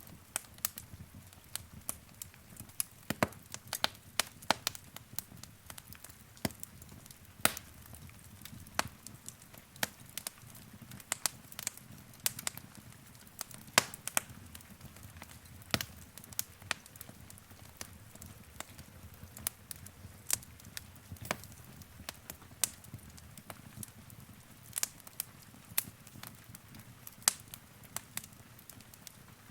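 Wood fire crackling: sharp pops and snaps at irregular intervals over a soft low rumble of burning.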